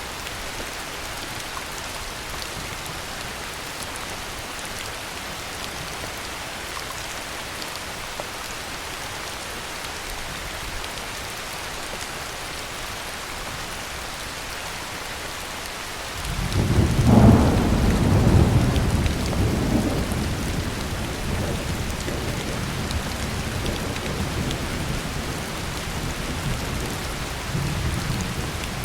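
Steady heavy rainfall, then about two-thirds of the way in a roll of thunder breaks in suddenly, peaks within a second or two and rumbles on, slowly fading, with another swell near the end.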